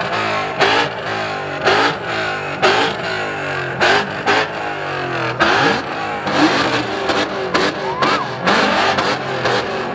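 Car engine revved repeatedly, its pitch falling back after each blip, with sharp short bangs roughly once a second.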